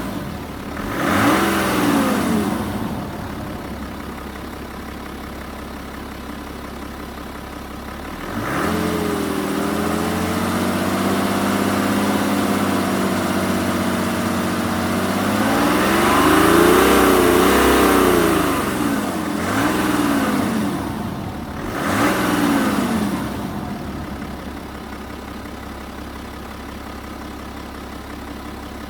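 BMW N57D30A 3.0-litre twin-turbo straight-six diesel in a 2011 F10 being revved from idle. There is a quick blip about a second in. Around nine seconds in the revs are raised and held, then climb higher a few seconds later, followed by two more short blips before the engine settles back to a steady idle for the last few seconds.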